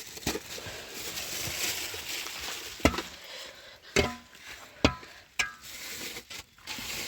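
A steady hiss, then four sharp knocks over the next two and a half seconds, two of them followed by a short ringing tone.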